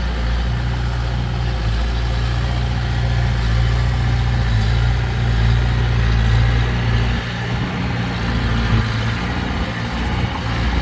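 Heavy diesel engine of earthmoving machinery running with a steady low drone. The drone eases off about seven seconds in.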